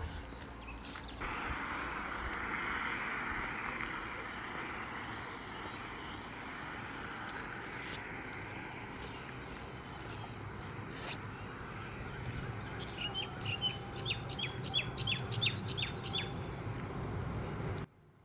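A songbird singing, with a quick run of short, high repeated notes in the last few seconds, over a steady background hiss. The sound cuts off abruptly near the end.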